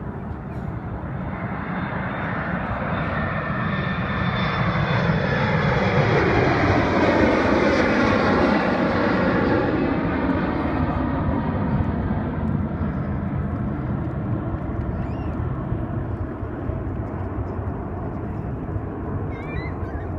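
An airliner taking off and passing close by at full power: the engine noise builds to a loud peak about a third of the way in, then slowly fades with a falling pitch as it climbs away.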